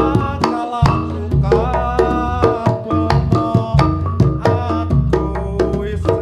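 Reog gamelan music played loud through a sound system: hand drums beating a steady rhythm over ringing tuned gongs and heavy bass.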